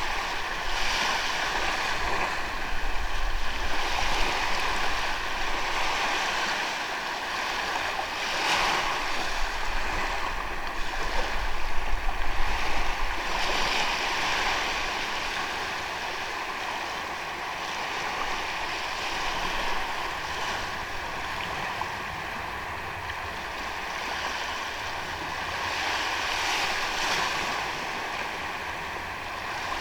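Sea waves breaking and washing onto a sandy beach, the surf swelling and easing every few seconds.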